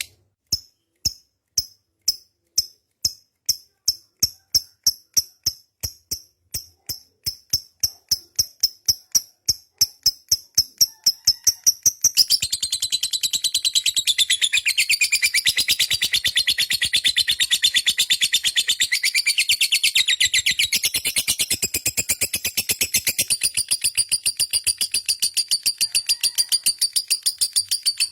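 Lovebird's long 'ngekek' song: sharp high chirps, spaced at first, that speed up over about twelve seconds and then break into a long, unbroken, high chattering trill. This drawn-out ngekek is what keepers prize as the sign of a bird in full song form (gacor).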